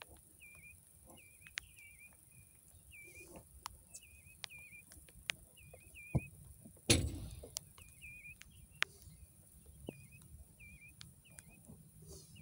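A bird repeating a short chirping call over and over, about every half second, with scattered faint clicks and one loud thump a little past halfway.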